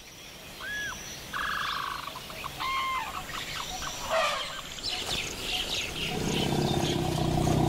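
Several birds calling: a short arched whistle, a buzzy trill, a two-note call and scattered chirps. About six seconds in, a low steady hum comes up beneath them.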